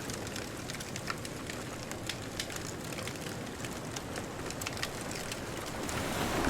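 Bonfire crackling, with many small sharp pops over a steady hiss, and a distant ocean wave washing in near the end.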